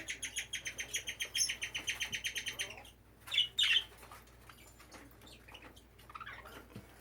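Budgies chattering: a fast run of short, repeated high chirps for nearly three seconds, then a louder single chirp, then softer scattered twittering.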